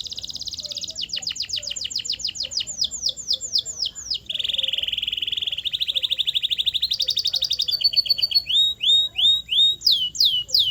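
Canary singing a continuous song made of rapid trills, each a fast run of one repeated note before switching to the next: quick falling notes at first, a lower, faster roll about four seconds in, a higher trill, then slower swooping notes near the end.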